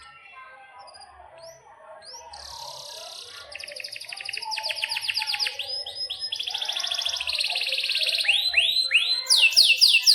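Domestic canary singing a long song of fast trills and buzzy rolls, broken by rising whistled sweeps. It grows louder towards the end, finishing in a rapid run of loud swooping notes.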